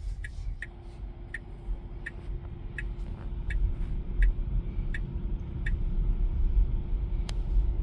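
Turn-signal indicator ticking about three times every two seconds inside an electric Tesla Model Y's cabin, stopping about six seconds in. Under it is a low road rumble that grows louder as the car picks up speed under self-driving.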